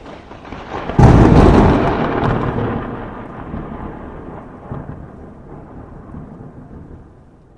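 A sudden loud boom about a second in, like a thunderclap, rumbling on and fading away slowly over several seconds.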